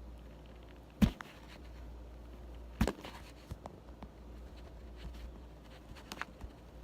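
Knife carving a bar of soap: a few light scraping ticks and two sharp knocks, one about a second in and one near the middle, over a low steady hum.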